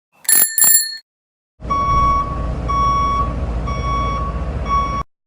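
Two short, high-pitched blasts, then a truck's reversing alarm beeping about once a second over a low engine rumble, which cut off together near the end.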